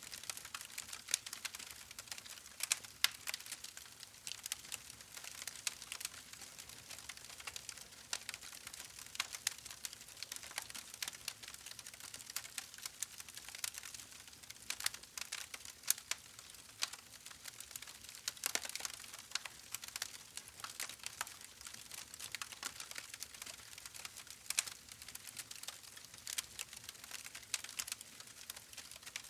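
Wood fire in a fireplace crackling: irregular sharp pops and snaps over a steady soft hiss of burning logs.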